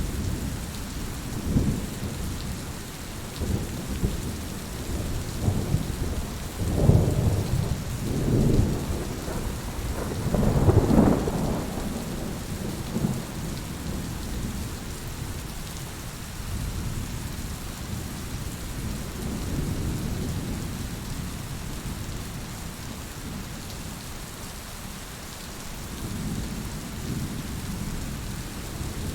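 Heavy rain falling steadily with rolling thunder; the rumbles swell several times in the first half, loudest a little after the middle, then ease to a softer low rumble under the rain.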